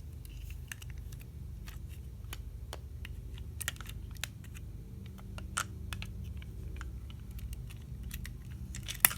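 Irregular light clicks and taps of a model train engine being handled and set onto HO-scale track, with one sharper click near the end, over a low steady hum.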